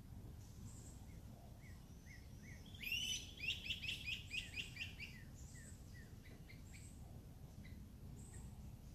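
A songbird singing: a loud run of about ten quick repeated notes over about two seconds, starting about three seconds in, with fainter single chirps before and after. A low steady background rumble sits underneath.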